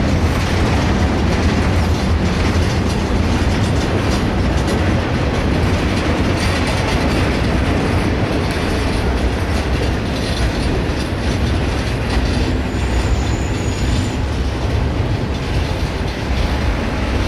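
Norfolk Southern train cars rolling past close by on steel wheels, a loud steady rumble with no break.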